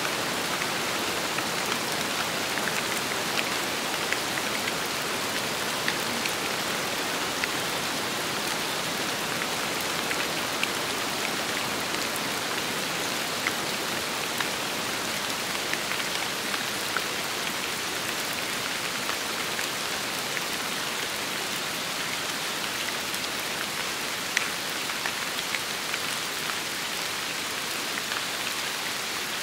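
Steady rain falling, a dense hiss with many individual drops ticking sharply on a hard surface.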